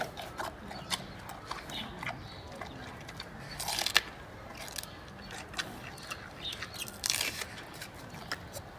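Giant panda biting and chewing bamboo: a steady run of crisp cracks and crunches, with a louder spell of crunching near the middle and another later on.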